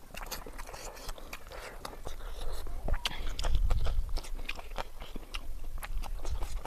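Close-miked chewing of spicy rice and chicken curry eaten by hand, with many sharp wet lip-smacks and mouth clicks. A louder low rumble comes a little past the middle.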